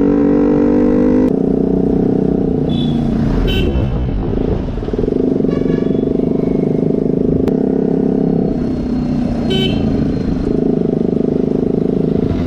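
KTM 125 single-cylinder engine running through an Akrapovič aftermarket exhaust, holding fairly steady revs, with a sudden change about a second in.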